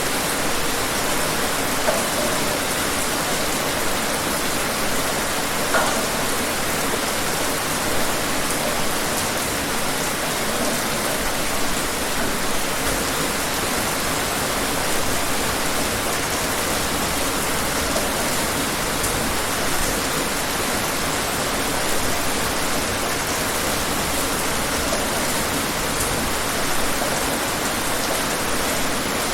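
Steady rainfall with scattered individual drops ticking on a surface.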